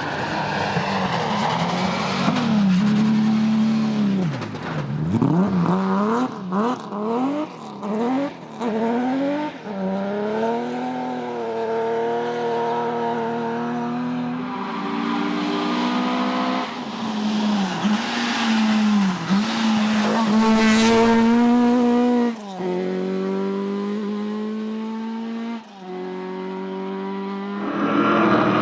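Historic rally car engine revving hard on a stage, its pitch swinging quickly up and down through gear changes, then held high before the revs cut off sharply about three-quarters of the way in.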